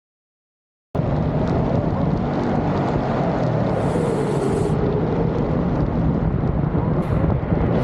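A mountain-slide cart rolling fast down its track, a steady rumble with wind buffeting the microphone. It starts abruptly about a second in.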